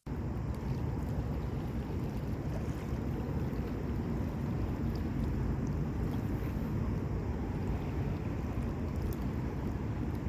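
Steady low rushing noise, with no pitch or rhythm, that starts abruptly.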